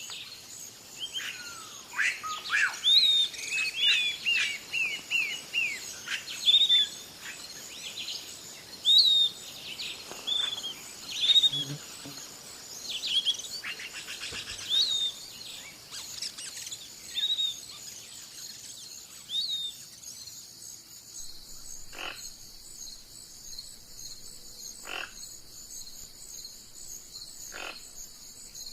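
Wild birds chirping repeatedly, short hooked notes, over a steady high insect chorus. The chirping stops about two-thirds through, leaving the steady chorus and three short calls a few seconds apart.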